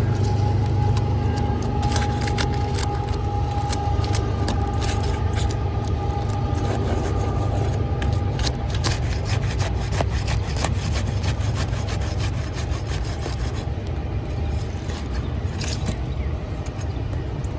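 Asphalt roof shingles being rubbed and scraped, with many small clicks, over a steady low rumble. A faint steady tone runs through the first half and stops about halfway.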